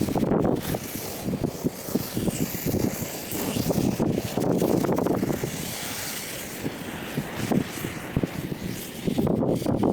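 Wind buffeting the microphone over the rumble of a moving vehicle, a rough, fluttering noise that rises and falls throughout.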